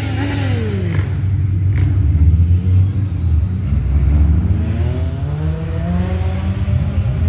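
Loud, low rumble of car engines passing close by. One engine's note falls away in the first second, then another climbs from about four and a half seconds in as a car accelerates.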